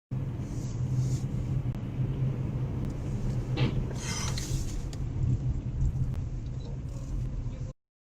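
Steady low rumble of a car's engine and road noise heard from inside a vehicle on a dash camera, with a brief hiss about three and a half seconds in; it starts and cuts off abruptly.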